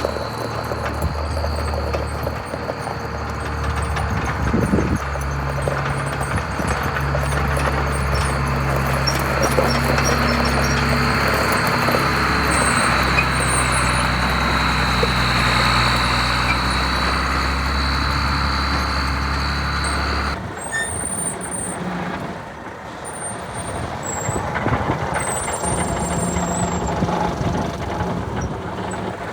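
Forklift running and working, with a low engine hum and a steady high whine that cut off abruptly about two-thirds of the way through, followed by quieter machine noise with short high tones.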